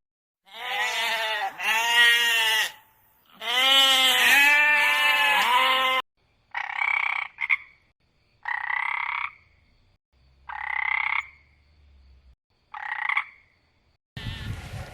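Animal calls: a long run of loud, pulsing calls that rise and fall several times a second, then four short separate calls about two seconds apart.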